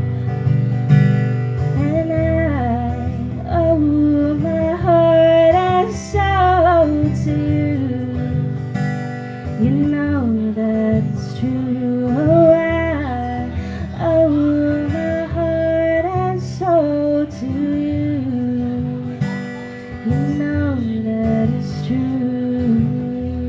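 Live music: a woman singing a slow song over acoustic guitar accompaniment.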